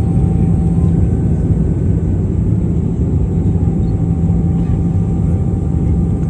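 Aircraft in flight: a loud, steady engine drone with a low hum and a few faint steady whining tones above it.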